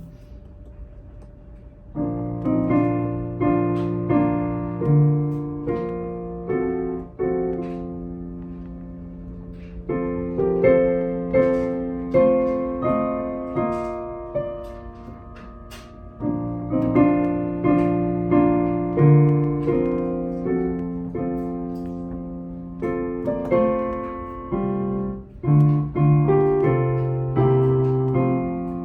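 Piano playing a hymn in four-part chords, phrase by phrase, each chord struck and held, with short lulls between phrases.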